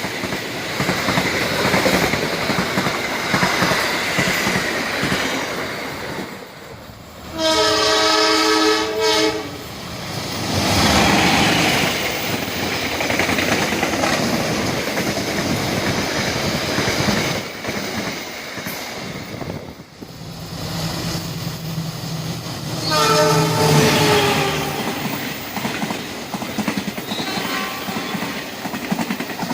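Trains passing at speed, wheels rumbling and clattering on the track. A multi-note train horn sounds for about two seconds some seven seconds in, again for about a second and a half near 23 seconds, and more faintly once more shortly after.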